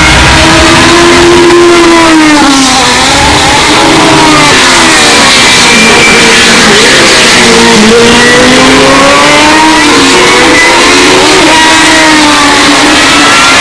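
Historic Formula 1 racing car engine running at high revs, its pitch repeatedly falling and rising through gear changes. The sound is very loud and distorted from deliberately over-boosted volume.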